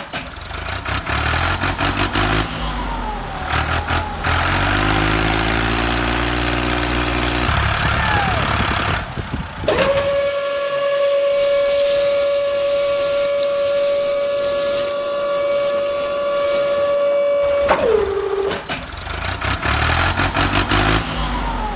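Truck engine running, then a long steady horn-like tone starting about ten seconds in and holding for about eight seconds before it drops away.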